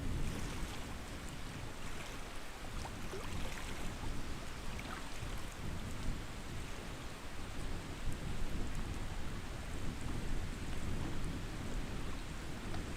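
Steady lakeside water sound, small waves lapping without a break, over a low rumble.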